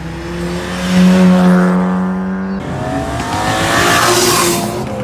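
Car engine revved hard and held at high revs, cutting off sharply about two and a half seconds in, then climbing again under a hiss that swells and fades near the end.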